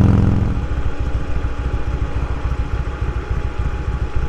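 Motorcycle engine running: a loud engine note eases off within the first half second, and the engine settles into a lower, steady pulsing run.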